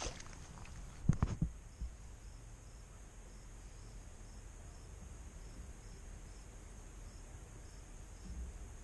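Insects chirping, a faint high chirp repeating about three times a second over a steady high hum. A few low knocks about a second in are the loudest sounds.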